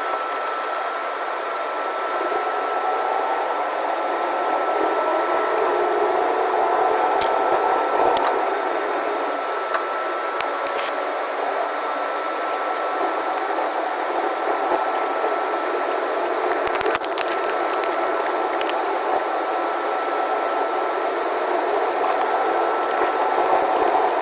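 Airbus A330 cabin noise during taxi, played back sped up: a steady engine and air hum with a constant high whine. A few sharp clicks and knocks are scattered through it.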